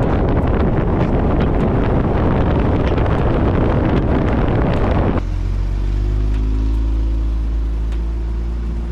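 Kia Stinger 3.3L twin-turbo V6 car on the move, with heavy wind noise on the microphone; about five seconds in, the sound cuts suddenly to a steady, deep engine and exhaust drone with a few held tones.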